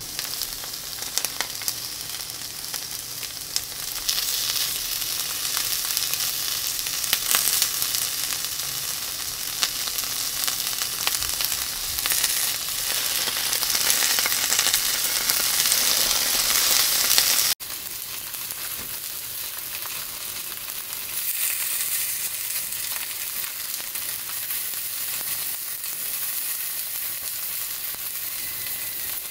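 Cubes of atsuage (thick deep-fried tofu) sizzling in oil in a nonstick frying pan: a steady frying hiss with scattered small pops and crackles. It breaks off for a moment about two-thirds of the way through and goes on a little quieter.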